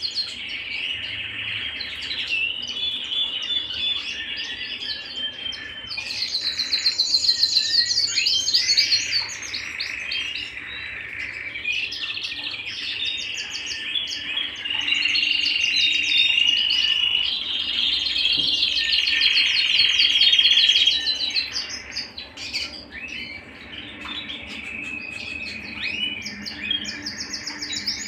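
Domestic canary singing a long, unbroken song of rolling trills and held whistled notes. A fast, high rattling trill comes about six seconds in and again near the end, and a long steady note runs from about fifteen to twenty-one seconds.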